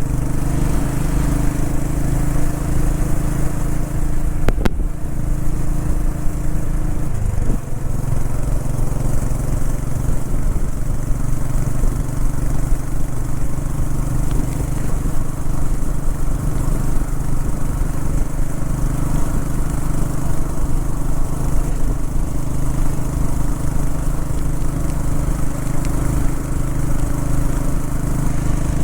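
Royal Enfield Bullet 500's air-cooled single-cylinder engine running steadily at motorway cruising speed, with wind and road noise. Its tone shifts briefly about seven seconds in.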